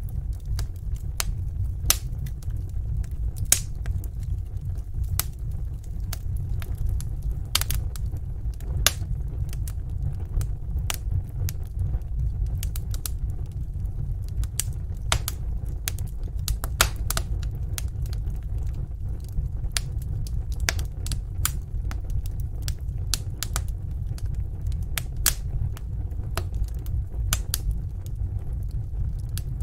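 Fireplace fire crackling: irregular sharp pops and snaps, several of them louder, over a steady low rumble.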